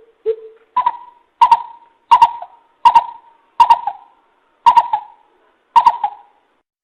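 Greater coucal giving its hooting call, played as a trapping lure: a series of about nine short hoots, spaced a little under a second apart. The first two are lower and the rest higher in pitch, each with a sharp start.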